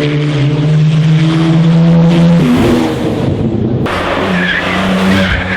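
Racing car engine running hard at a steady high note, with a break and change of pitch about two and a half seconds in, like a gear change. It then pulls on at a steady note again, with a rushing hiss over it in the last part.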